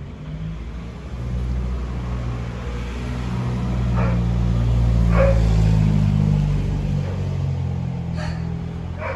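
A motor vehicle's engine running, swelling to its loudest midway and then easing off, with a few short animal calls over it.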